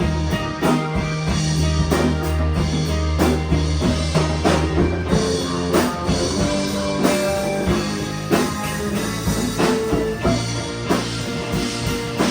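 A rock band playing an instrumental passage: drum kit keeping a steady beat under held bass notes and guitar.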